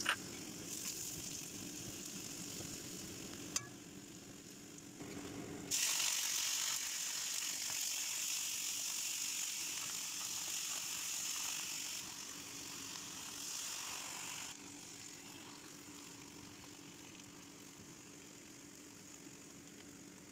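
Minced garlic and then napa cabbage sizzling in hot oil in a wok. The sizzle jumps much louder about six seconds in, then fades back to a quieter sizzle after about fourteen seconds.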